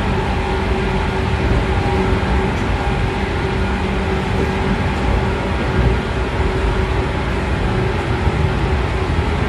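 Running noise inside the motor car of a 113 series 5700 subseries electric train. The MT54 DC series-wound traction motors and gears whine at a steady pitch over the rumble of wheels on rail.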